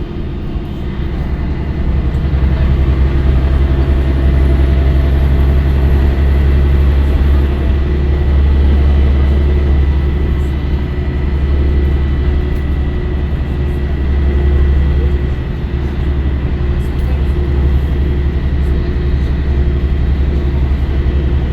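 Scania L113CRL bus's six-cylinder diesel engine running steadily under way: a loud deep drone with a thin high whine above it, easing briefly about three quarters of the way through.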